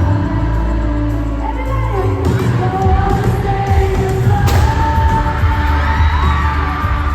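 Live pop concert music heard from the audience: a woman singing long held notes over heavy bass, with the beat filling out about two seconds in.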